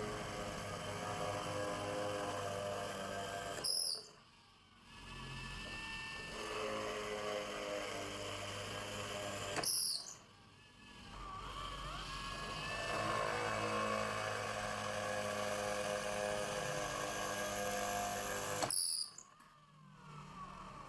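Electric motor of a homemade drill press and drum sander running with a steady whine. It breaks off sharply three times, each with a click, and comes back up each time.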